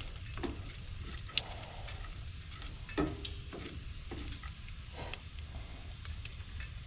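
Bacon and potatoes frying in pans on a camp stove with the heat turned up: steady sizzling with a few sharp pops and clinks, over a low steady rumble.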